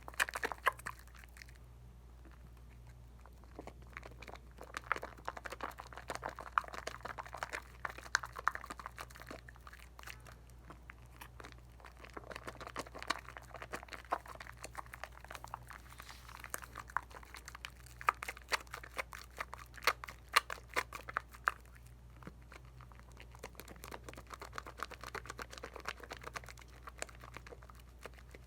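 Soap lather being worked by wet hands, with a dense fine crackle and squish of suds and popping bubbles that comes in spells with short pauses. The soap is Dial coconut bar soap.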